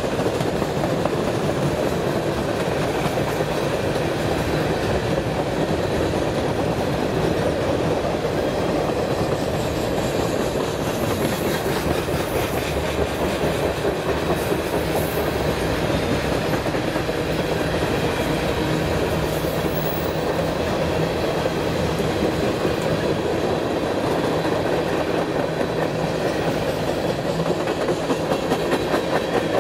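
Manifest freight train's cars rolling past, a steady, unbroken noise of steel wheels on the rails.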